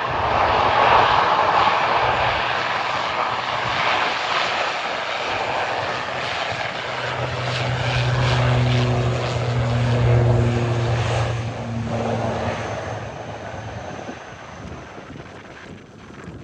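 ATR 72-600 turboprop airliner at takeoff power: its twin Pratt & Whitney PW127 engines and propellers make a loud rushing noise, then a steady low propeller hum from about halfway through, fading over the last few seconds as the aircraft departs.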